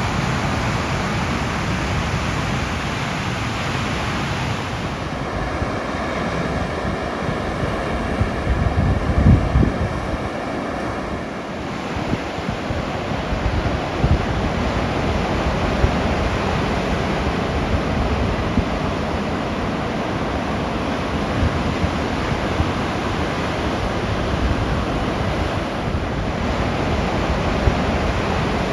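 Atlantic surf washing steadily onto the shore, with wind buffeting the microphone and a strong gust about nine seconds in.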